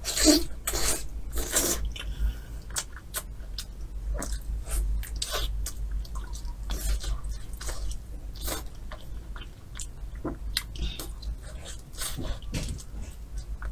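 Close-miked eating: meat bitten and torn from a goose wing bone and chewed, with many short mouth clicks and smacks.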